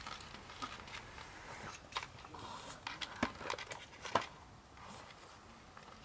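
Scattered light clicks and taps of utensils and dishes as people start eating a meal, with small handling noises in between.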